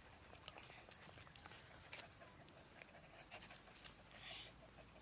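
Near silence, with faint scattered clicks and soft rustles and a brief soft hiss about four seconds in.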